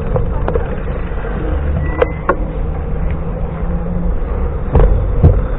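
Steady low rumble of wind and road noise from riding, with a faint hum, broken by a few sharp clicks and knocks, two of them close together about two seconds in and the loudest near the end.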